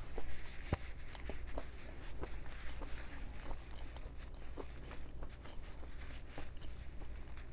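Close-miked chewing of a breaded plant-based fried chicken nugget: scattered soft wet mouth clicks and smacks over a steady low hum.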